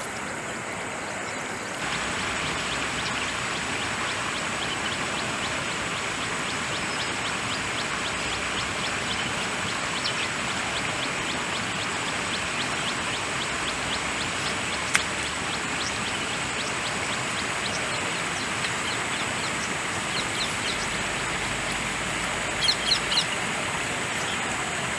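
Steady rush of flowing stream water, a little louder from about two seconds in, with a thin steady high whine and scattered short bird chirps, a small cluster of them near the end.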